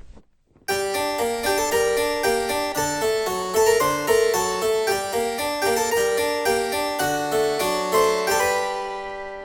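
Harpsichord music: a quick run of plucked keyboard notes that begins just under a second in and fades out near the end.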